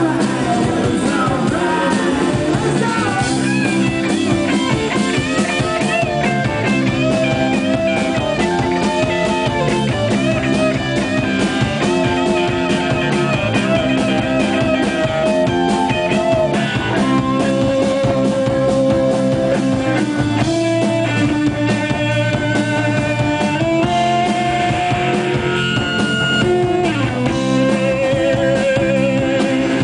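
A rock band playing live: guitar over a drum kit, with sustained, wavering melodic notes.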